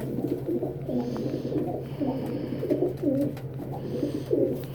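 A pet pigeon cooing close by, a run of short low coos over a steady low hum.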